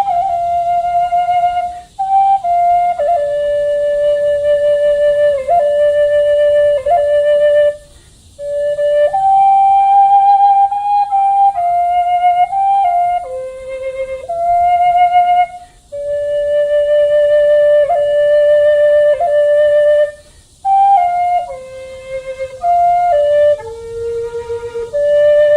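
Solo flute playing a slow melody of long held notes, with short breaks for breath.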